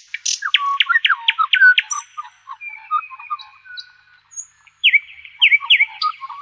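Several songbirds singing and calling: a series of quick, sharp descending chirps early on, scattered thinner calls in between, and another run of descending chirps near the end.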